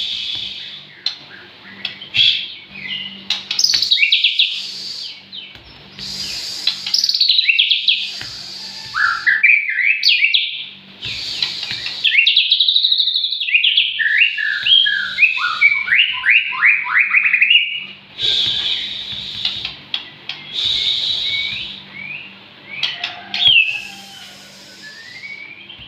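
White-rumped shama (murai batu) singing: a varied song of loud whistled phrases and quick runs of repeated sweeping notes, with short pauses between phrases, over a faint steady low hum.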